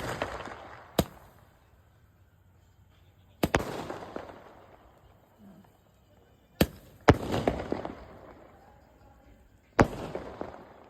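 Firework rockets going off: a series of sharp bangs, one right at the start, then about a second in, around three and a half seconds, two close together near six and a half and seven seconds, and one near the end. Each bang is followed by crackling that dies away over a second or two.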